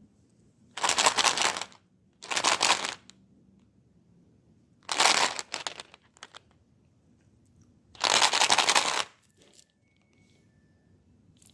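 Four bursts of crackling, crinkling noise, each about a second long, separated by short pauses.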